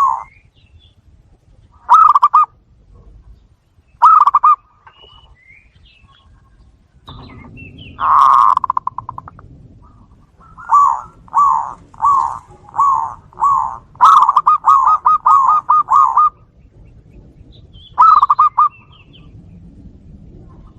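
Zebra doves (perkutut) calling back and forth: short bursts of rapid, rattling coos, then a run of five evenly spaced coos, a longer fast rattling phrase about two-thirds of the way through, and one more burst near the end.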